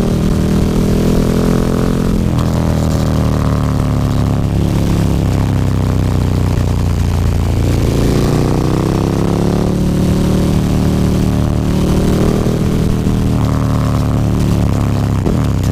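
KTM 1290 Super Duke R's 1301 cc V-twin through an Akrapovic slip-on exhaust with the dB killer removed, heard while riding. The engine note climbs and falls back several times as the bike accelerates, shifts and rolls off, with a quick rise in pitch near the end.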